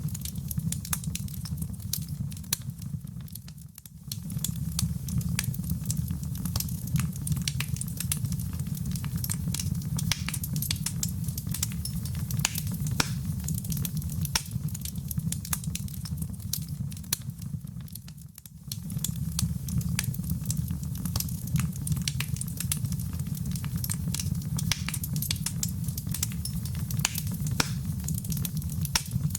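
Fire in a fireplace crackling, with many sharp pops and snaps over a low steady roar of flame; the sound dips briefly twice, about four seconds in and again about two-thirds of the way through.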